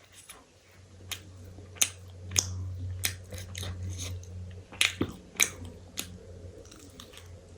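Close-up chewing of chocolate with nuts, with a run of sharp crunches between about one and six seconds in.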